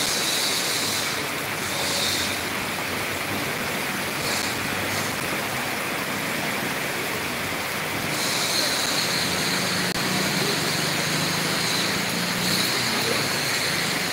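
Heavy rain falling in a steady hiss over a flooded street, with a vehicle's low engine hum passing through the water about nine seconds in.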